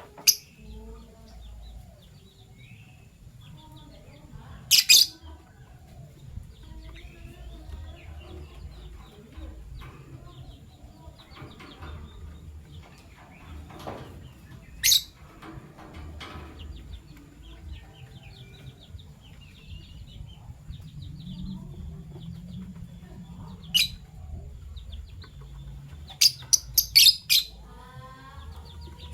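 Fischer's lovebirds chirping: sharp, loud, high chirps every few seconds and a quick run of several near the end, over softer chirping throughout.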